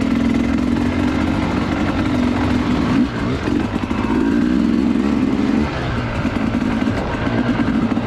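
Dirt bike engine running at a steady throttle, easing off briefly about three seconds in and again near six seconds.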